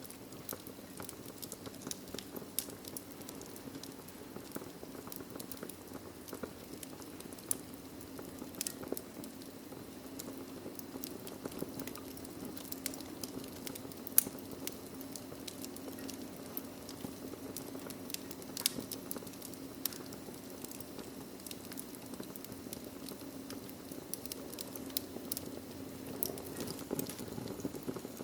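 Wood fire burning in a fireplace: a steady low rush of flames with irregular sharp crackles and pops, one louder pop about halfway through.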